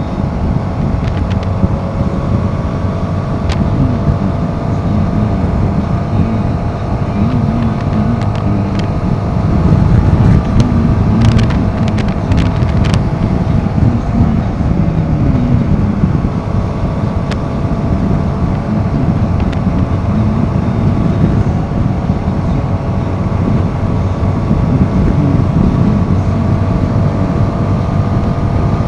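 Royal Enfield Himalayan 450's single-cylinder engine running steadily under way, with wind buffeting the microphone. The engine note dips briefly about halfway through, just after a few sharp ticks.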